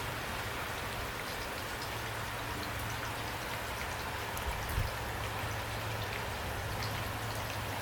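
Steady rain falling, with single drops ticking through the hiss and a low steady hum underneath; one brief low thump about five seconds in.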